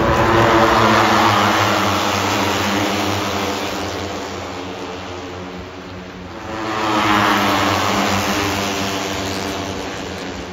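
Racing motorcycles passing at speed, twice, about six seconds apart. Each engine note swells to a peak and falls away in pitch as the bike goes by.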